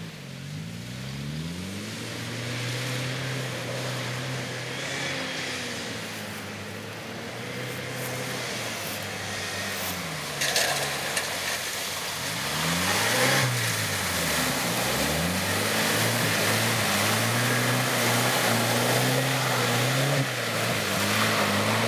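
Engine of an off-road vehicle revving hard while driving through mud, its pitch rising and falling several times, with a sharp knock about halfway. The engine gets louder and stays at high revs over the second half.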